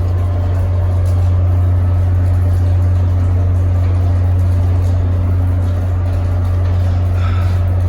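Idling NJ Transit train locomotive: a steady, loud, deep hum with fainter steady drones above it. A brief, faint higher-pitched squeak comes near the end.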